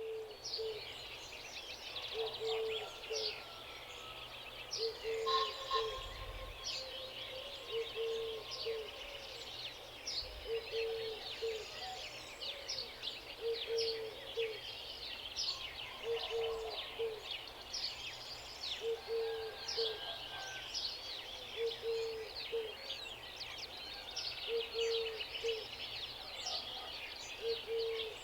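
Countryside bird chorus: many small birds chirping and twittering, with a low two-note call repeating steadily about every two and a half seconds beneath them.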